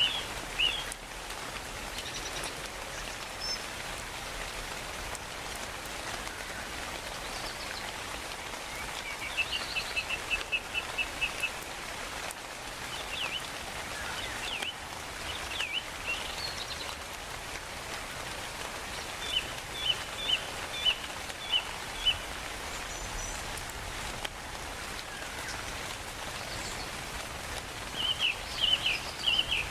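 Steady rain hiss with birds calling over it: about four quick runs of short high chirps, and a few sweeping calls between them.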